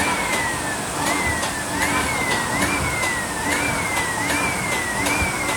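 Paper lid machine running slowly in jog mode: a motor whine that rises sharply and sinks slowly in pitch about once a second, in step with light clicks of the mechanism cycling.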